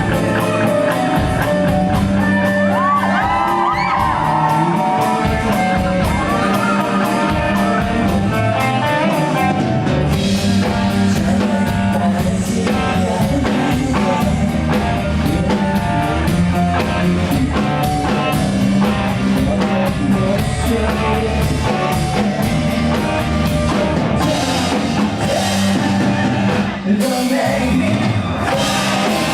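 A rock band playing live, with drum kit and guitar under a singer's voice.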